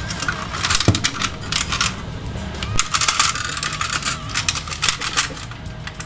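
Hard plastic toy parts clicking and clattering as they are handled, with a single lower knock about a second in.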